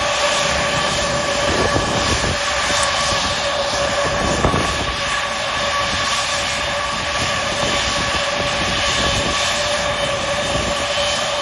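Jet aircraft engine running steadily: a constant rushing noise with a high whine.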